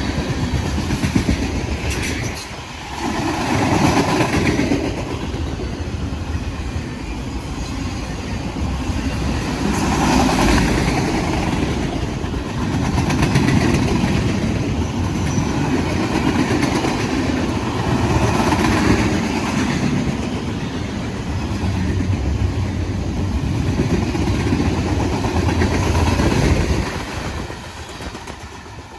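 Train cars rolling past, their wheels rumbling and clattering on the rails with recurring swells, until the sound drops away sharply near the end as the train's end passes.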